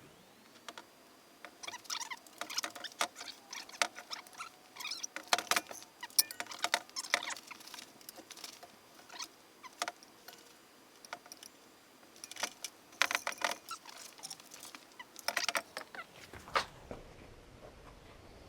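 Irregular light metallic clicks, clinks and knocks in scattered clusters, the sound of hands and tools working on a car's engine during engine installation.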